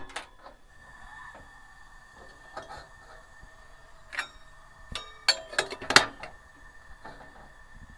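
Cups, utensils and coffee things being handled: scattered clinks and knocks, with a quick cluster of sharp clicks about five to six seconds in, over a faint steady high tone.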